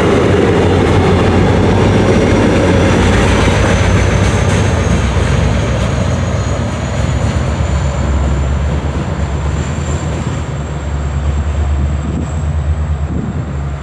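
MARC commuter train rolling past, its steel wheels rumbling on the rails, with a thin high-pitched whine held over the rumble. The rumble eases off about halfway through.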